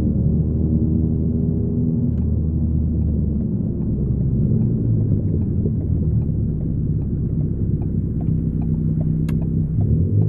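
2015 Ford Focus ST's turbocharged 2.0-litre four-cylinder with a Roush exhaust, heard from inside the cabin while driving: a steady low exhaust drone. A few light ticks, and one sharp click about nine seconds in.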